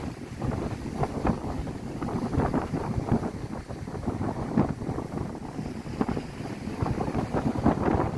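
Wind buffeting the microphone in uneven gusts, a rough fluttering rush with no steady tone.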